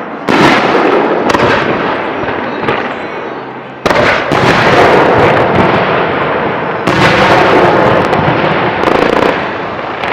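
Fireworks display: loud aerial shell bursts about half a second, four seconds and seven seconds in, each followed by several seconds of dense crackling, with further bursts near the end.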